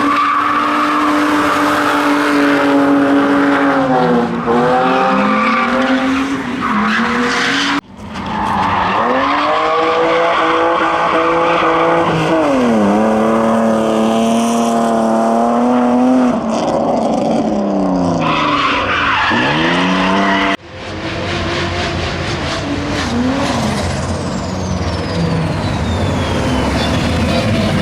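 Drift car engines revving hard, the pitch repeatedly climbing and dropping, over tyres skidding and squealing. The sound breaks off abruptly twice, about eight and twenty-one seconds in.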